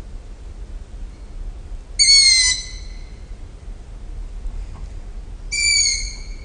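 A bird gives two short, high whistled calls about three and a half seconds apart, each lasting about half a second, the first louder than the second. A steady low hum runs underneath.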